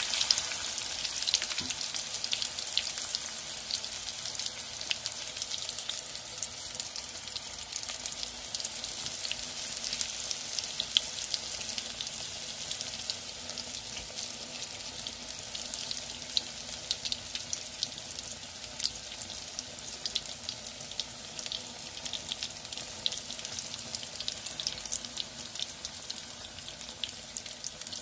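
Egg-and-onion pakoda batter frying in hot oil in a pan: a steady sizzle with dense, fine crackling pops.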